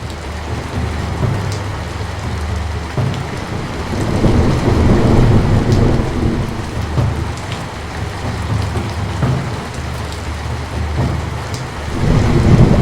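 Rain falling steadily, with low rumbles of thunder that swell about four seconds in and again near the end.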